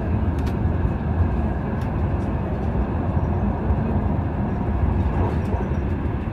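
Steady low rumble of a Frecciarossa high-speed train running at speed, heard from inside the passenger carriage, with a few faint clicks.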